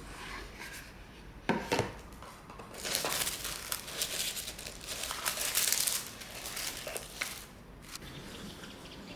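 Packaging crinkling and rustling as it is handled. Two sharp clicks come about a second and a half in, then a stretch of dense crinkling lasts about three seconds, with a last brief rustle near the end.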